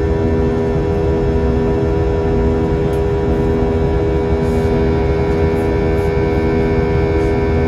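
Airliner cabin noise in flight: the steady drone of jet engines and rushing air, with a hum of several fixed tones over a constant roar.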